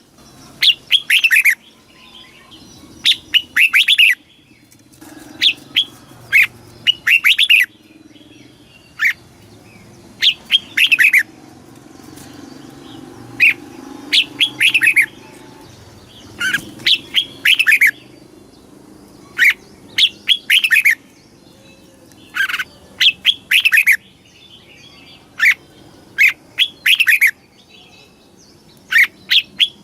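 Red-whiskered bulbul singing: short, loud phrases of quick falling whistled notes, repeated every second or two.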